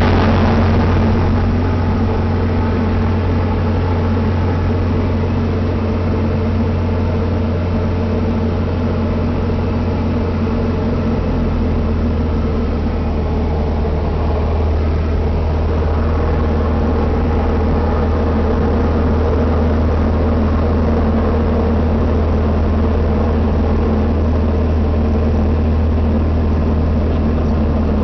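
Steady engine and airflow drone inside a private jet's cockpit in flight, a constant low hum with a haze of rushing air above it.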